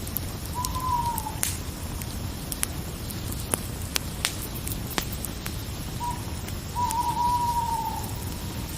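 An owl hooting twice: a short falling hoot about half a second in, then a longer drawn-out hoot that holds and drops away near the end. Scattered sharp crackles sound over a steady background hiss.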